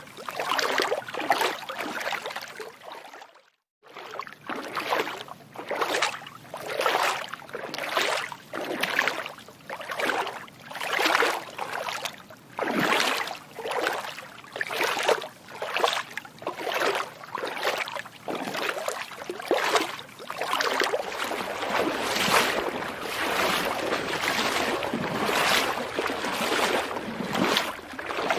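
Feet splashing through water in a steady walking rhythm, about one splash a second. The sound cuts out to silence for a moment near the start, and the splashes run together more in the last third.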